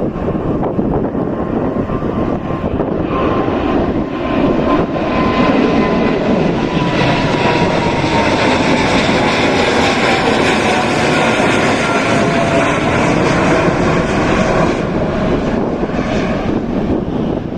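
Airplane flying overhead: a steady engine rush that swells after a few seconds and eases near the end, with a thin whine that slowly falls in pitch as it passes.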